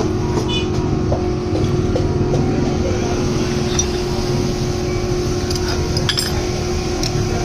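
A few light metallic clinks of hand tools and small engine parts being handled, over a steady mechanical hum.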